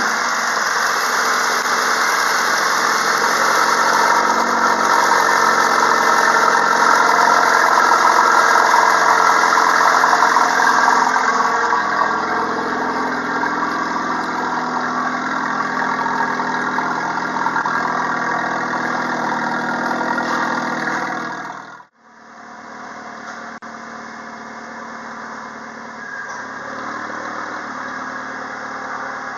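Honda R18A1 1.8-litre four-cylinder engine running steadily at idle. About two-thirds of the way through, the sound dips out for a moment and comes back quieter.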